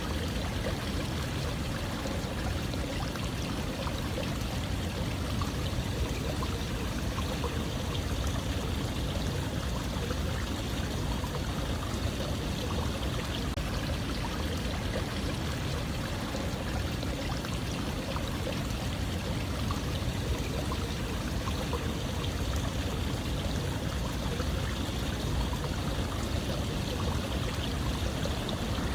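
Running water flowing steadily and evenly, with no change across the stretch.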